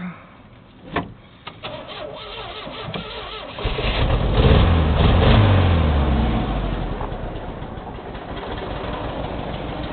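Chevrolet S10 pickup's engine being started: a few clicks, a short crank, then it catches about three and a half seconds in, runs up loudly and settles into a steady idle.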